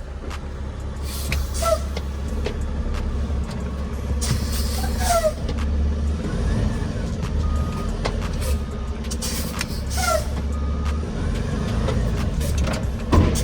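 Dump truck's diesel engine running steadily with the PTO engaged and the body raised, a deep constant drone. A few short, high, falling squeaks sound over it, three times, with faint short beeps near the middle.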